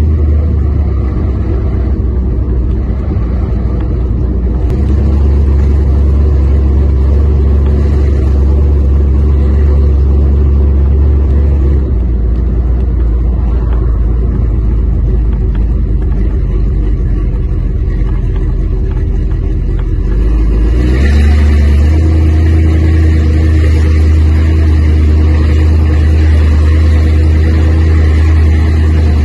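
A 1973 Chrysler station wagon's 7.2-litre V8 running at low road speed, a steady deep engine rumble heard from inside the cabin. It eases off about twelve seconds in and comes back louder about twenty-one seconds in.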